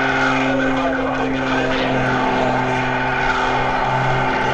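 Wolf Pitts Pro aerobatic biplane's piston engine and propeller running at steady power, a constant drone that holds one pitch.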